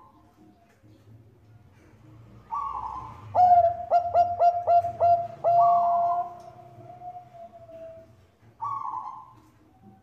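Zebra dove (perkutut, Bangkok strain) singing. An opening coo is followed by a quick run of about six short notes, then a long held note that fades away, and another coo comes near the end.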